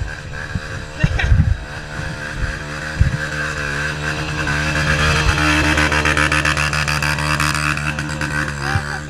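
Single-cylinder dirt bike engine running at fairly steady revs, growing louder toward the middle, with several sharp thumps about a second in and another at about three seconds.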